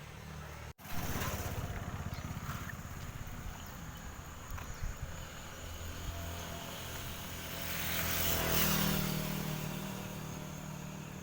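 A motor engine running steadily, with a low, fast-pulsing rumble that swells for a moment about eight seconds in.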